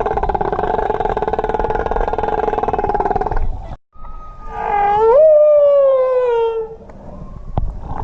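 Animal calls from a sound effects compilation: a steady, rapidly pulsing call for about three and a half seconds, then a brief gap and one howl of about two seconds that rises sharply and then slowly falls in pitch.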